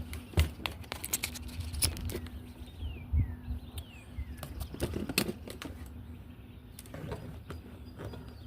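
Irregular clicks and knocks, thickest in the first few seconds and again about five seconds in. A bird calls with short falling whistles about three and four seconds in.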